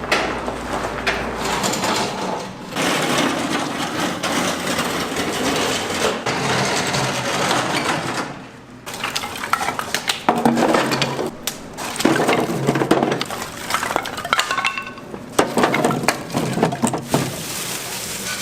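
Dishes and cookware clinking and clattering, with irregular knocks and clicks that stop briefly a few times.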